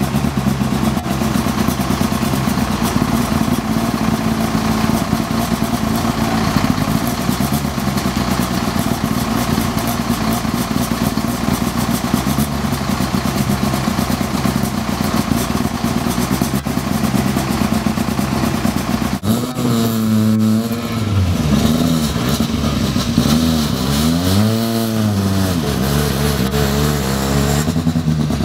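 Škoda Fabia S2000 rally car's 2.0-litre four-cylinder engine running at a steady idle. From about two-thirds of the way in it is blipped several times, the pitch rising and falling with each rev.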